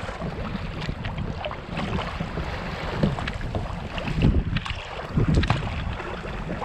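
Strong wind buffeting the microphone on a canoe in choppy water, with water splashing and slapping around the boat. The rumble is rough and uneven, with louder gusts about three, four and five seconds in.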